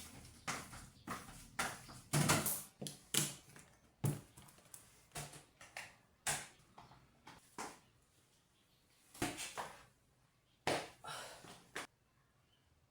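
Irregular light knocks and clatters of household objects being handled, about twenty over some twelve seconds, stopping shortly before the end.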